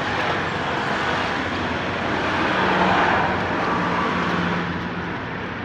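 A motor vehicle passing by: a steady rush of engine and road noise that swells to its loudest about three seconds in, then fades.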